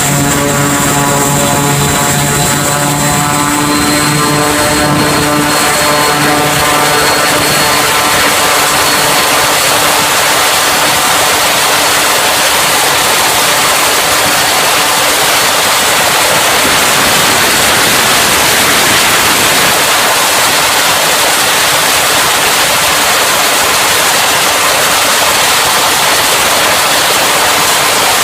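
Twin turboprop engines of a C-2 Greyhound running at high power on a carrier flight deck: a steady propeller hum over loud rushing noise, the hum fading into the rush in the middle and coming back near the end.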